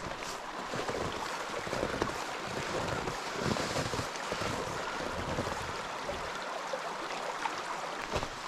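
Steady rush of a mountain stream flowing under snow, with a few short crunching steps in snow.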